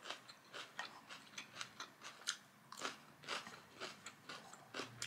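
A person chewing food close to the microphone: a quick, irregular series of faint, crisp mouth clicks and crunches.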